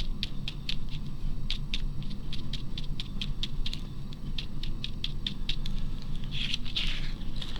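Brush pouncing ink onto paper: a quick, uneven run of light taps, several a second.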